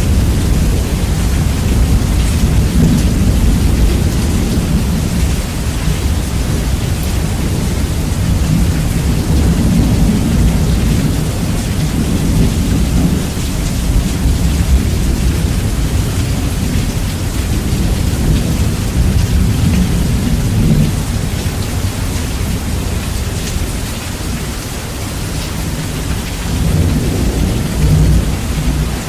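Steady rain with continuous rolling thunder, heavily bass-boosted so the low rumble dominates and swells and eases over the span.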